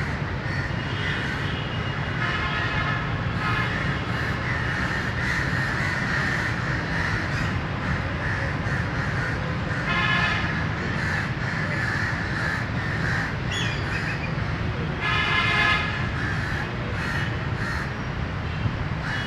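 Crows cawing in several short bouts, over a steady low background hum.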